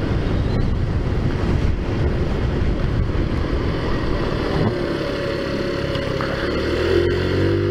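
Taotao Zummer 50cc four-stroke scooter engine running under way, with wind noise on the microphone. About five seconds in, the engine note comes through more clearly, drops slightly in pitch and settles as the scooter slows.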